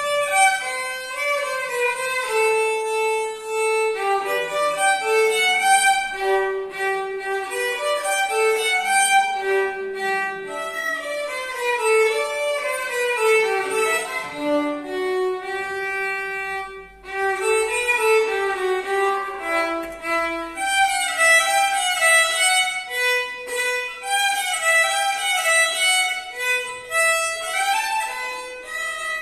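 Violin playing a quick tune meant to sound like birdsong, its notes stepping up and down in rapid runs, with one short break a little past halfway.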